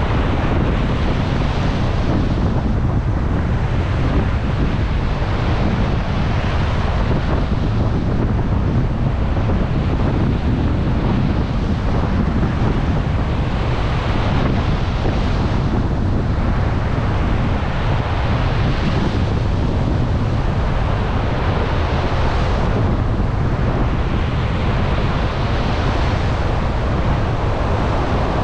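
Storm surf breaking continuously on a beach, the waves swelling and washing in every few seconds under a steady low rumble of strong wind buffeting the microphone.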